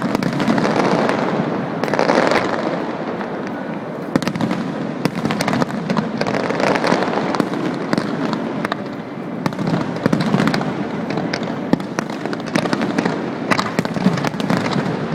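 Fireworks going off continuously: a dense run of sharp cracks and bangs over a steady rumble of bursting shells.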